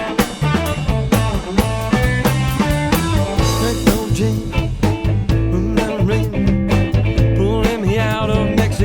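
Band music with drum kit, bass and guitar playing a steady beat: the instrumental intro of a rock song.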